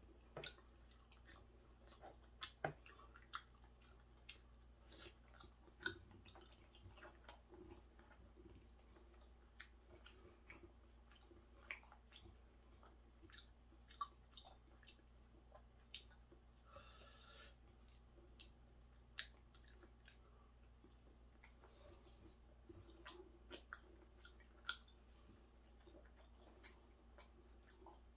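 Quiet, close chewing of raw hairtail sashimi, with scattered sharp clicks from wooden chopsticks and mouth. There is a brief hiss about halfway through.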